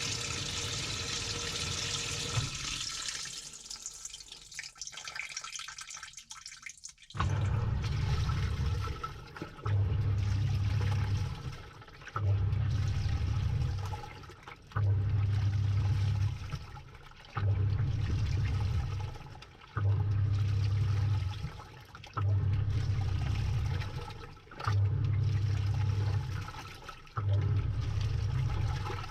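Samsung top-load washing machine heard from inside the tub: water pouring in stops a few seconds in, then the pulsator motor starts the wash, a low churning stroke with sloshing water roughly every two and a half seconds, nine strokes in all.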